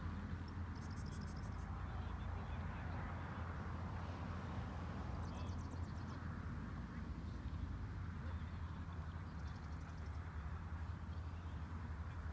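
A bird's rapid, high-pitched chattering trill, heard three times about four seconds apart, over a steady low rumble.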